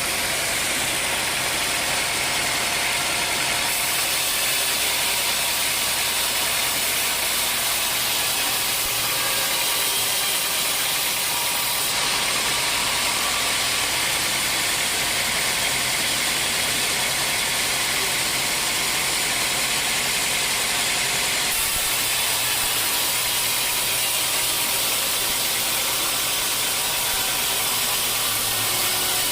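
Band sawmill running steadily, its blade sawing through dry teak wood: a continuous hiss over a low machine hum.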